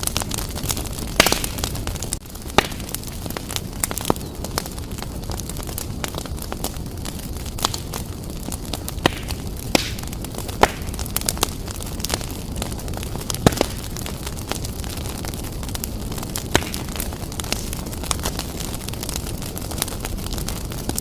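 Wood fire burning vigorously in a fireplace, with a steady low rumble of flames and irregular crackles and sharp pops of the burning logs, a few of them louder.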